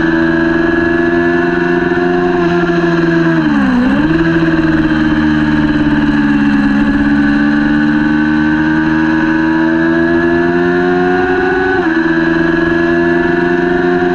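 Kawasaki Ninja 400 parallel-twin engine running hard at high revs: the pitch dips briefly and recovers about four seconds in, climbs slowly, then drops suddenly near the end.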